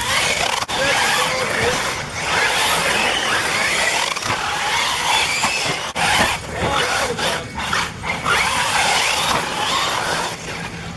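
Several RC off-road buggies racing, their motors whining and changing pitch up and down over and over as they accelerate and brake.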